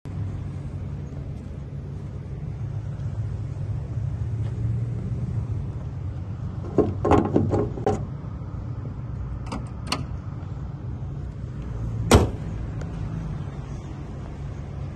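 Toyota Wish's 1.8-litre Valvematic four-cylinder engine idling steadily. A run of clanks and clicks comes around seven to eight seconds in, two more clicks follow, and one sharp slam comes about twelve seconds in as the bonnet is shut.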